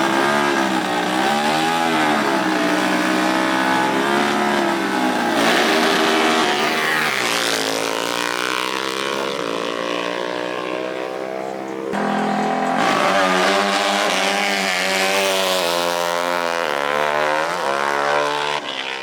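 Off-road racing engines revving hard, their pitch rising and falling repeatedly, with a fresh surge of engine noise about twelve seconds in.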